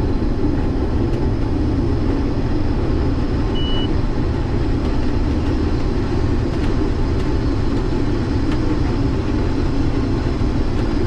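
Case IH 2388 combine running steadily while harvesting wheat, a constant loud drone of engine and threshing machinery. A brief high beep sounds about three and a half seconds in.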